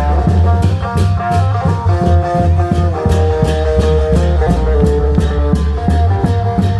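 Live Isan klong yao band music: an electric phin lute playing a lively melody over long drums, bass and cymbals keeping a steady beat of about three strokes a second.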